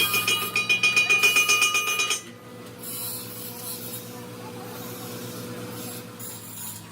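A power tool working on the tire with a fast pulsing, rasping sound and a high whine, which stops sharply about two seconds in. A quieter steady machine hum follows.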